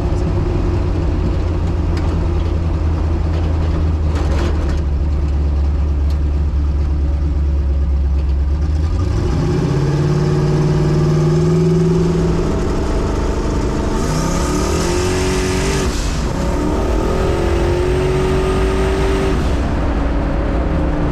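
Twin-turbo LS V8 in a Chevy S10 drag truck, heard from inside the cab: a steady low drone, then from about nine seconds in the engine pulls hard, its pitch rising and stepping as it goes through the gears. A loud hiss rises for a couple of seconds midway through the pull.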